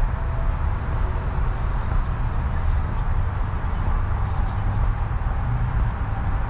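Footsteps on a paved trail, walking at an even pace, over a steady, loud low rumble.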